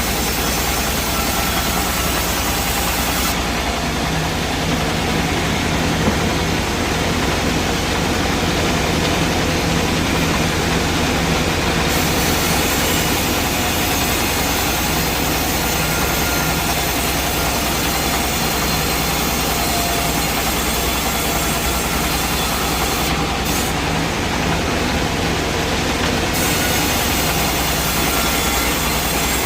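Sawmill machinery running: a steady heavy engine drone under constant mechanical noise, with no break.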